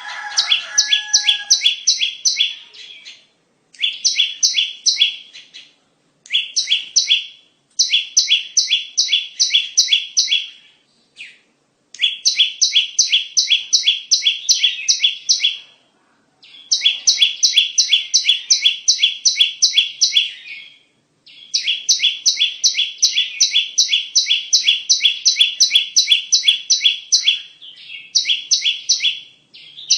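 Bar-winged prinia (ciblek) song used as a lure call: phrases of rapid, evenly repeated chirps, about four a second, each phrase a few seconds long with short pauses between them. A brief lower call from another bird sounds at the very start.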